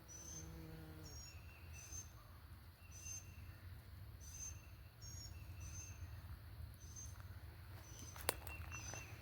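Birds chirping: short, high notes repeating about once a second over a steady low rumble, with one sharp click about eight seconds in.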